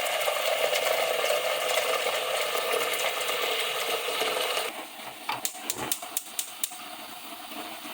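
Tap water running steadily into a pot, shut off suddenly about two thirds of the way through, followed by a quick run of about seven sharp clicks.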